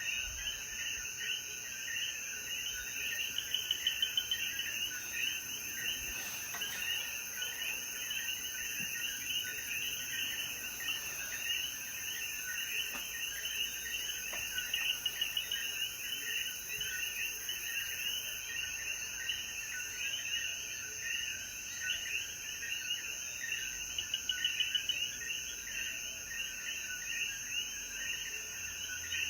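Night chorus of Puerto Rican coquí frogs calling over and over, with a steady high insect drone beneath. Three times a louder, nearer run of rapid calls stands out briefly.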